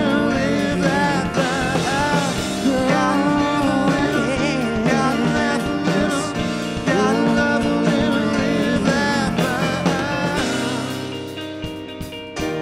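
Live indie rock band playing a song: a sung lead vocal over drum kit, bass, electric guitar and a Nord stage piano. Near the end the drums and low end drop back and the music gets quieter.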